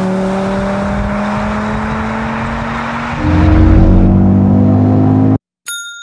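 Audi turbocharged inline five-cylinder engine pulling steadily, its note rising slowly. About three seconds in it cuts to a louder, deeper engine note, which stops abruptly near the end and gives way to a short ringing chime that fades away.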